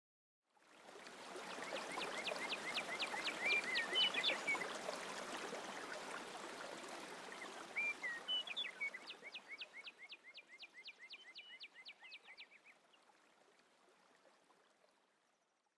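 A small songbird singing two bouts of rapid, evenly repeated high down-slurred notes over a steady outdoor rushing hiss like running water. The whole fades in and out.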